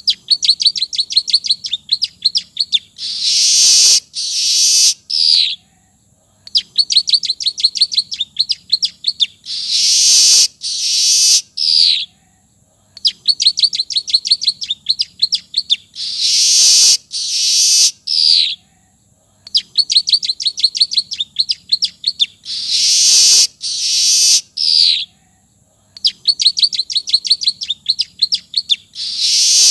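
Weaver bird (manyar) singing a song with notes learned from the bar-winged prinia (ciblek). The same phrase repeats about every six and a half seconds: a fast run of high ticking notes for about three seconds, then two loud buzzy notes and a short falling note, then a brief pause.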